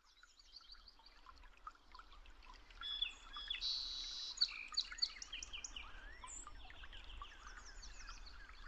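Several birds chirping and trilling, a dense chorus of quick high calls over a faint low hum. It starts suddenly out of silence and grows louder about three seconds in.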